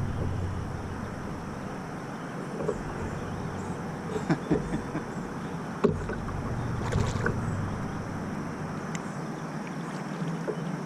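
Light knocks and clicks of gear being handled in a kayak, scattered through the stretch, over a steady hiss of wind and water; a low wind rumble on the microphone fades in the first couple of seconds.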